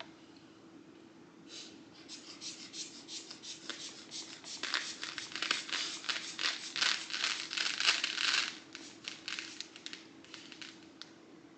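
The rubber bulb of a manual blood pressure cuff being squeezed over and over to pump up the cuff. It makes a quick run of short puffing, rustling strokes that build to their loudest in the middle and then trail off. A faint steady hum runs underneath.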